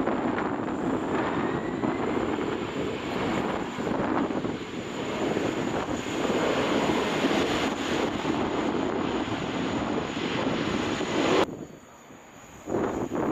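Jet engines of a Boeing 767 running at high power on the runway, a steady loud roar. It cuts off abruptly about eleven seconds in, leaving fainter wind noise.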